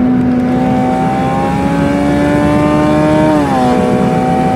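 Honda Civic's engine heard from inside the cabin, accelerating at highway speed with its note slowly rising in pitch, then dropping quickly about three and a half seconds in as it shifts up, and running steady after that.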